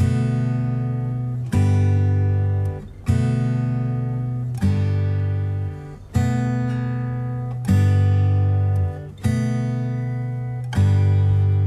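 Background music: an acoustic guitar strums a chord about every one and a half seconds, each left to ring out and fade before the next.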